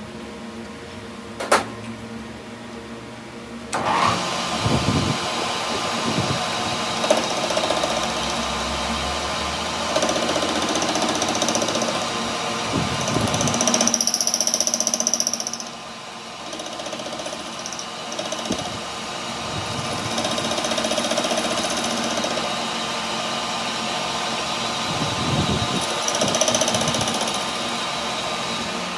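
A sharp click, then a workshop machine or power tool starts about four seconds in and runs steadily, rising and falling slightly in level.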